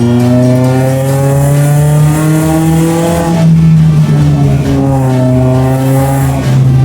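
Toyota Yaris GR Sport with an aftermarket full-system dual-muffler exhaust, accelerating. The revs climb for about three seconds, drop at a gear change, then climb again.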